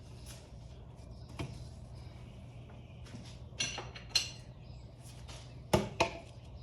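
Metal hand tools and parts clinking and knocking against each other a handful of times, sharpest near the end, over a steady low hum.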